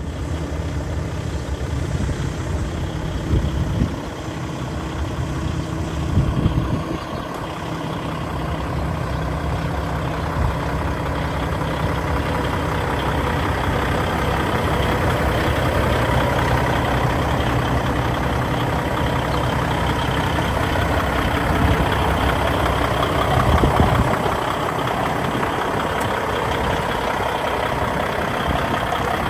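Kenworth T660 heavy truck's diesel engine running steadily at idle, with a few brief louder swells.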